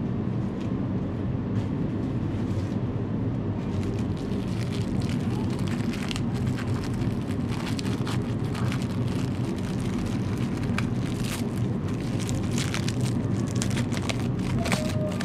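An engine running steadily at idle, with scattered light clicks and knocks of metal parts being handled from about four seconds in.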